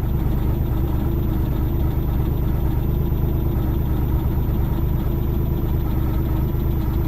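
A steady, even engine rumble with no change in pitch or level.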